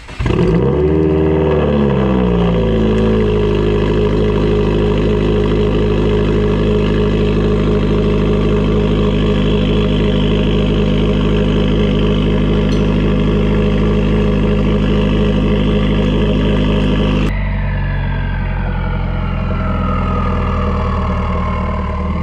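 Straight-piped, turbocharged Subaru WRX flat-four starting up, its revs flaring and settling over the first few seconds into a steady, loud idle. Near the end the sound drops a little and a whistle slowly falls in pitch over the idle.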